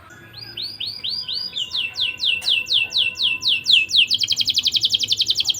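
Canary singing: a run of repeated falling notes, a few a second, which about four seconds in switches to a rapid trill of about ten notes a second.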